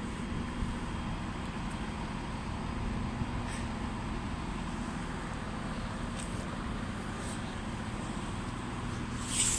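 Steady low rumble and hum of trains at a station platform, with a Class 170 Turbostar diesel multiple unit approaching from a distance.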